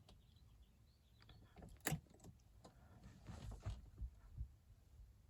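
Mostly near silence. About two seconds in there is one sharp click as the ignition is switched back on to heat the diesel's glow plugs. Faint clicks and rustles follow.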